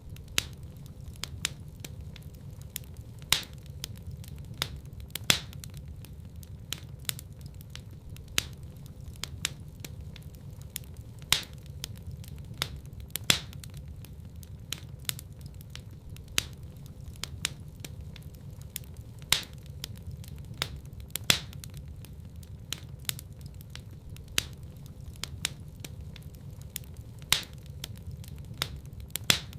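Wood fire burning in a fireplace: a steady low rumble of flame with irregular crackles and sharp pops, several of them louder.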